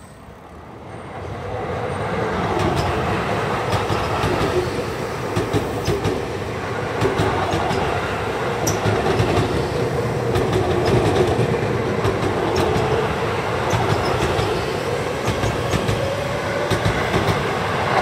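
Seibu 6000 series electric commuter train running past close by. It grows louder over the first two seconds as it approaches, then holds a steady rumble with the clack of its wheels over rail joints.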